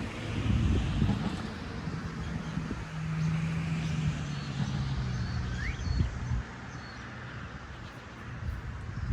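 Outdoor ambience with a steady low engine hum, like a vehicle running nearby, which fades after about seven seconds; a bird gives a short rising chirp about six seconds in.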